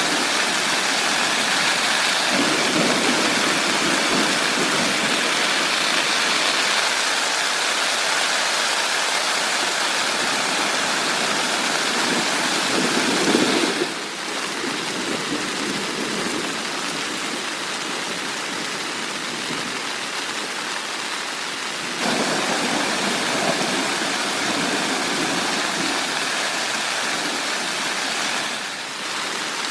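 Heavy rain pouring down in a steady, even roar. It drops suddenly to a softer level about halfway through and comes back up sharply about three-quarters of the way through.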